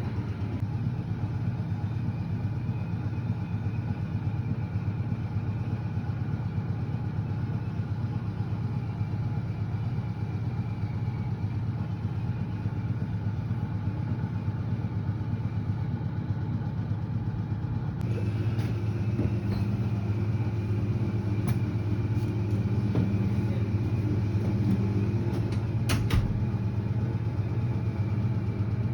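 Steady low machinery drone of a ship's engine room, growing slightly louder and changing character about two-thirds of the way through, with a couple of sharp knocks near the end.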